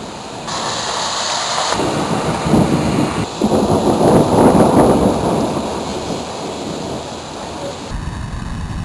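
Thunder rumbling over steady rain: the rumble builds about two seconds in, is loudest near the middle and then dies away.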